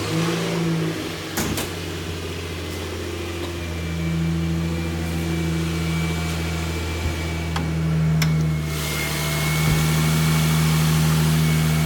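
Nissan Frontier's 4.0-litre V6 idling steadily, with a few light clicks over it.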